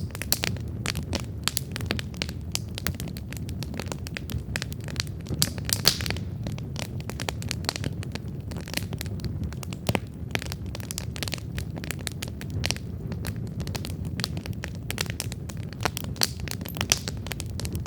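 Wood campfire burning, with frequent irregular crackles and pops over a steady low rumble of flames.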